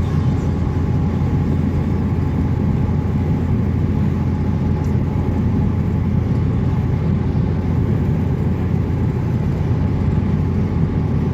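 A car driving on a highway: a steady, low road and engine rumble.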